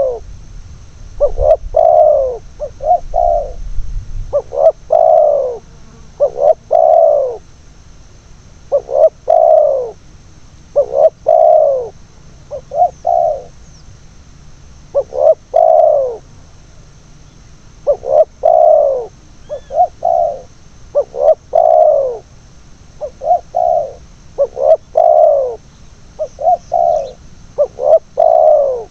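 Spotted doves cooing over and over, in short phrases of a few notes every couple of seconds, each note sliding down in pitch.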